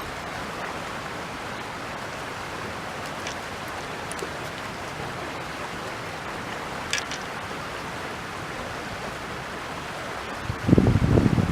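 Steady rush of flowing stream water. A few faint ticks sit on top of it, and near the end there is a short loud low buffeting.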